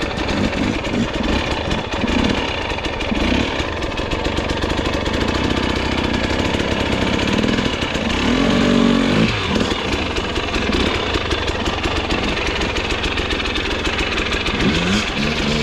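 Dirt bike engine running with the throttle worked up and down, the revs rising and falling repeatedly, most strongly about halfway through.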